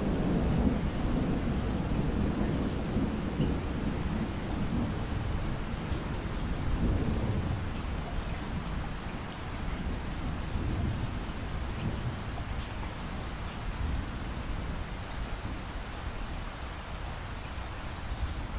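Steady rainfall with low rolling thunder, the rumble strongest through the first few seconds and swelling again about seven seconds in, then dying away.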